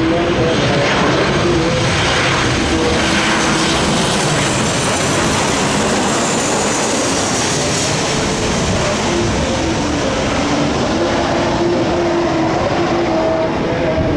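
Jet airliner passing close on landing: a loud, steady engine and air rush with a high whine that falls in pitch midway through.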